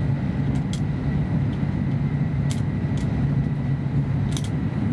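Running noise of a W7 series Shinkansen heard inside the cabin: a steady low rumble with a faint high tone and a few scattered light clicks.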